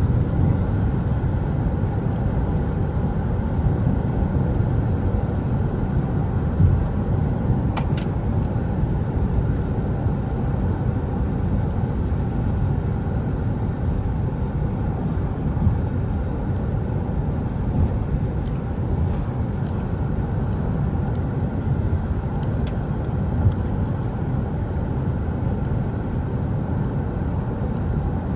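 Wind buffeting the microphone: a steady, low rush of noise with a few faint clicks.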